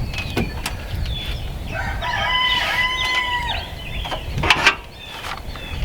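A rooster crows once, a long call of about a second and a half starting about two seconds in. Near the end come two sharp knocks in quick succession, louder than the crow.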